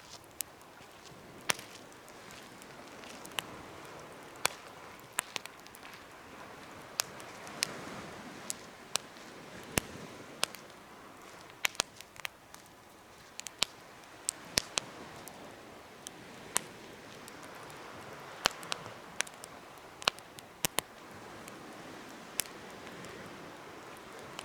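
Wood campfire burning in a fire pit: sharp, irregular pops and crackles, a few much louder than the rest, over a soft hiss that swells and fades.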